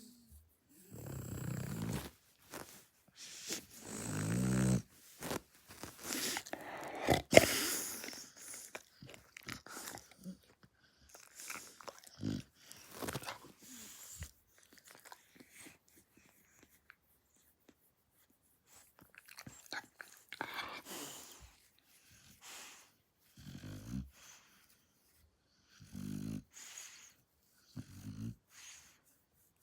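Shar-pei dog snoring in its sleep: irregular, low, buzzing snores on the breaths, with quieter gaps between, and a sharp click about seven seconds in.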